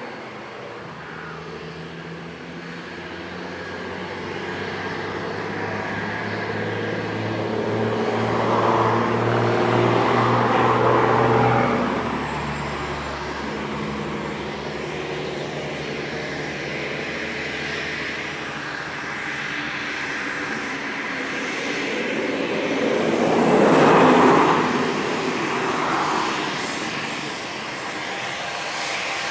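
Cessna Citation X business jet's turbofan engines running, a steady jet whine with low tones underneath, swelling louder about ten seconds in and peaking again more sharply about twenty-four seconds in.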